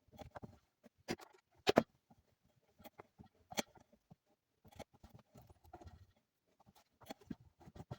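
Irregular light knocks and clicks, as of tools and parts being handled on a workbench, with the loudest a quick double knock a little under two seconds in.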